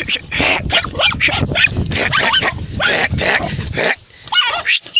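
Several dogs barking and yelping in a rapid, overlapping frenzy as they attack a large lizard; the barking drops briefly about four seconds in, followed by a few high yelps.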